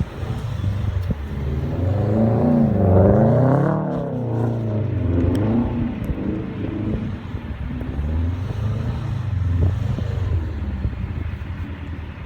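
Subaru WRX STi's turbocharged flat-four boxer engine running, revved up once and back down about two to four seconds in, then running at low revs with a few smaller rises.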